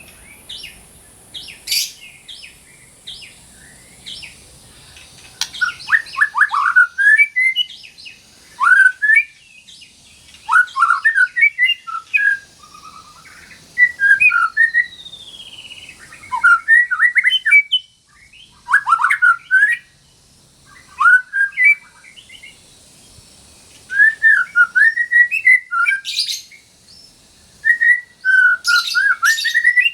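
White-rumped shama (murai batu) singing in bursts of rapid, varied whistled and chattering phrases, separated by short pauses. The song is sparse for the first few seconds and comes in steady bursts after that.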